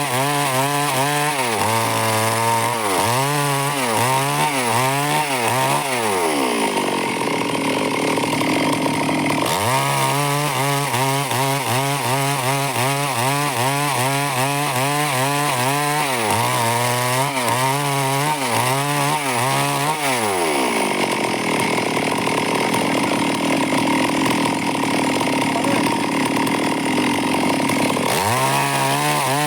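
Stihl two-stroke chainsaw cutting wood, its engine pitch wavering as the chain bogs and recovers in the cut. Twice the revs fall away to a lower running speed for several seconds, then the saw is throttled up again to cut.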